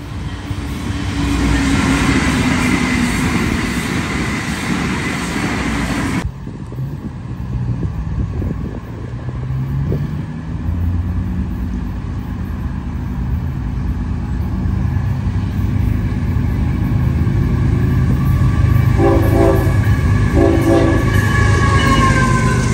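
A Brightline passenger train rushing past, cut off abruptly about six seconds in. Then a Florida East Coast Railway freight led by GE ES44C4 diesel locomotive 819 approaches with a building engine rumble and sounds two short horn blasts. Its tones fall in pitch as the locomotive passes close by.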